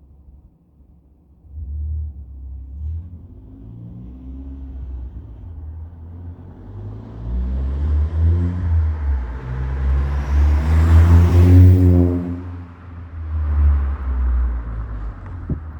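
Car with an aftermarket 63 mm exhaust (Etuners downpipe, Joombra resonator, Deikin muffler) rumbling. It starts about a second and a half in, builds with rising revs to its loudest about 11 to 12 seconds in, then eases back.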